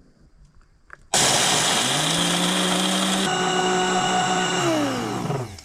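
Electric coffee grinder switched on about a second in, its motor running steadily for about four seconds, then switched off and spinning down near the end.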